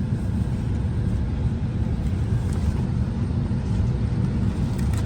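Steady low rumble of an Embraer E170's cabin at the gate, the even hum of its air-conditioning airflow, with a few faint clicks.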